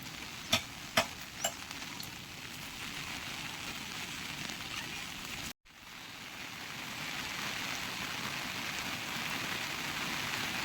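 Food sizzling in a pan, with three sharp utensil knocks in the first second and a half. After a brief cut about halfway through, steady heavy rain that grows a little louder.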